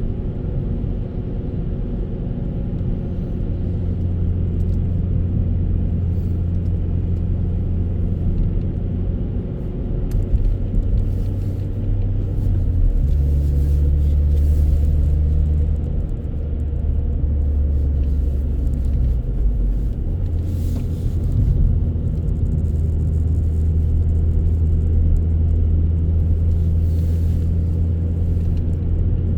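A car driving, with a low, steady rumble of engine and road noise. The engine drone shifts pitch a few times, about halfway through and again a little later.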